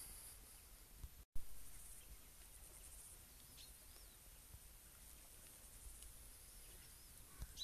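Faint outdoor ambience: a steady high insect hiss with a few short bird chirps, broken by a brief dropout a little over a second in.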